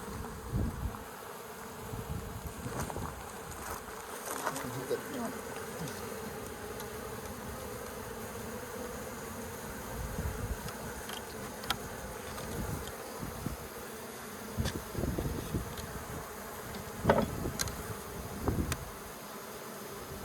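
Honeybee colony buzzing steadily, a massed drone of many bees, with scattered light knocks and clicks of comb and frames being handled. The loudest knock comes about three-quarters of the way through.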